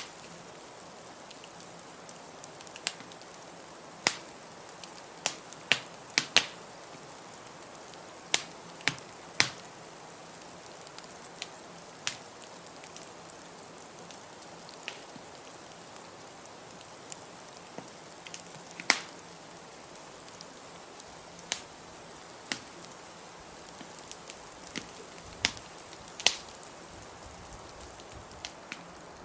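Wood fire crackling in a fireplace: irregular sharp pops and snaps, a couple every few seconds, over a steady rushing noise of blizzard wind.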